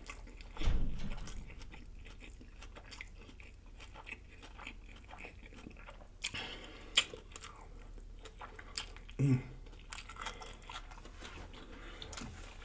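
A person biting and chewing food close to the microphone: crunchy bites, clicks and wet mouth sounds, with a low thump just under a second in and a short hummed "mm" about nine seconds in.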